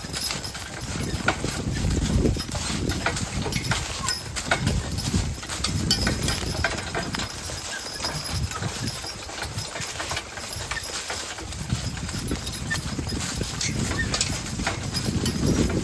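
Team of draft horses walking, hooves clopping steadily over a low rumble.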